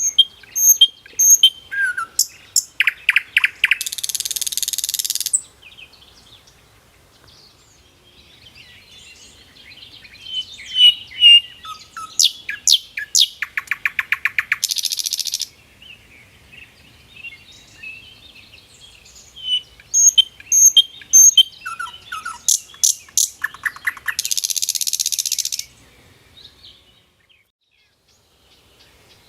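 A songbird singing the same song three times, about ten seconds apart: a few clear chirps, a quick run of notes, then a buzzy trill lasting over a second at the end. Fainter chirps fill the gaps between songs.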